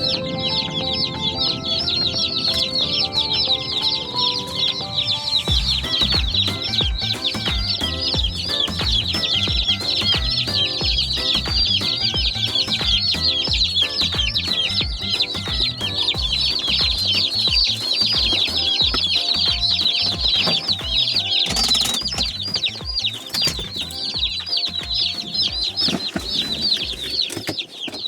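A crowd of day-old Cornish Cross broiler chicks peeping without pause, many short, shrill, falling cheeps overlapping. Background music plays under them, picking up a steady beat about five seconds in.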